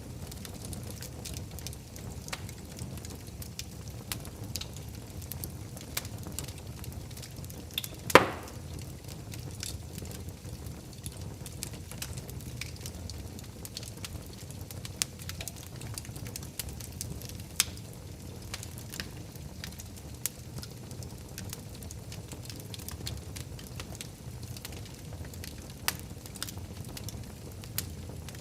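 Wood fire crackling in a fireplace: a steady low rumble of burning with scattered sharp pops and snaps, and one loud pop about eight seconds in.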